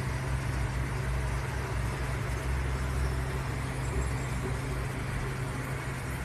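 Steady low mechanical hum with an even background hiss.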